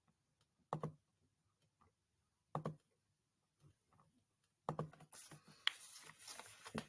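Faint clicks in a quiet small room: three short separate clicks about two seconds apart, then a denser run of faint clicking and rustling over the last two seconds.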